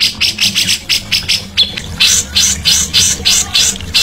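Songbird giving rapid, scratchy chattering notes at about five a second.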